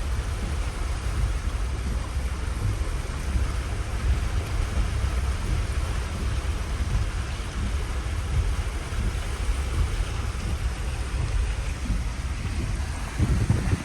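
Steady rush of heavy rain and running floodwater, with a deep, uneven rumble under it from wind on the microphone.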